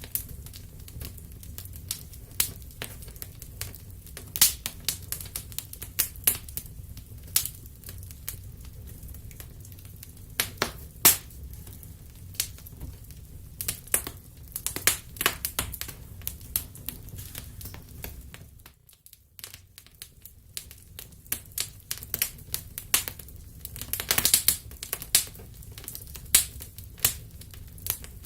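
Wood fire crackling and popping: irregular sharp snaps of varying loudness over a steady low rumble of the flames. The sound dips almost to nothing for about a second about two-thirds of the way through.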